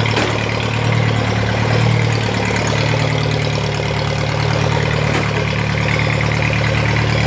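Small mini tractor engine, freshly hand-crank started, idling steadily, its speed settling slightly about two seconds in. Two faint clicks, one near the start and one about five seconds in.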